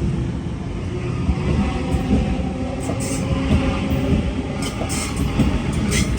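Electric passenger train running past: a steady low rumble of wheels on track, a constant motor hum, and scattered sharp clicks from the wheels over the rails.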